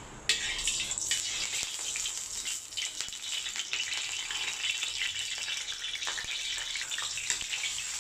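Sliced ginger dropped into hot cooking oil in a steel wok, hitting the oil suddenly about a third of a second in, then sizzling with many small crackles as it fries.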